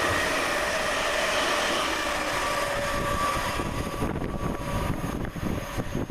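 Two coupled Class 360 Desiro electric multiple units passing through at speed, a loud rush of wheel and air noise with a few steady whining tones. It drops away about four seconds in, leaving a low, uneven rumble.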